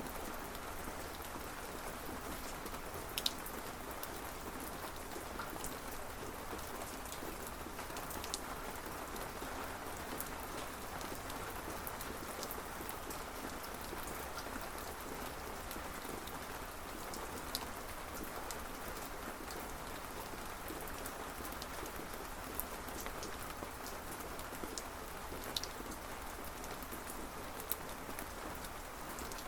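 Steady rain falling, an even hiss, with a few sharper single drops ticking here and there.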